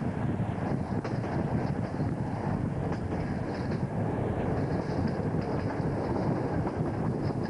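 Diesel-hauled passenger train running at speed: a steady rumble from the locomotive and wheels, with wind buffeting the microphone at an open window.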